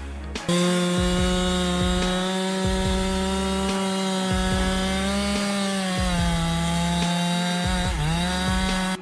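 Two-stroke chainsaw running at full throttle and cutting through wood, at a steady high engine pitch that starts abruptly about half a second in. Near the end the pitch dips briefly and then recovers.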